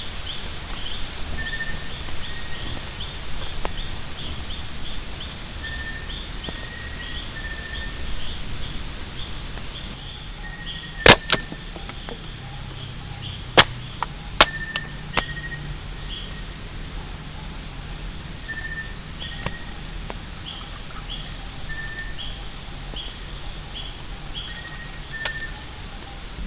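Outdoor night ambience: small animals giving short chirping calls about twice a second over a steady high buzz. A handful of sharp pops come about halfway through, with one more near the end.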